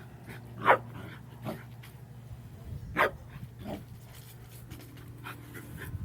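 A dog barking: two sharp barks about two seconds apart, with a few softer yips between them, over a steady low hum.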